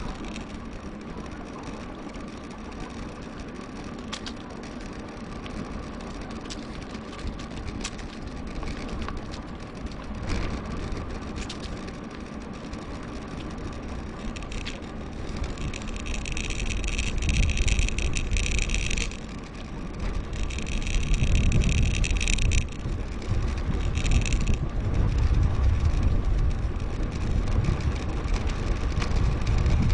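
Ride noise from a mountain bike: tyre hum and wind on the camera microphone, with the wind rumble growing heavy in the second half. Over it come three stretches of rapid freehub clicking while coasting, about halfway through, just after, and briefly a little later.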